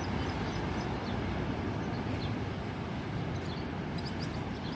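A few faint, very short, high chirps from a small wild bird, the klik-klik, heard about two seconds in and again near the end. They sit over a steady low rumble of background noise.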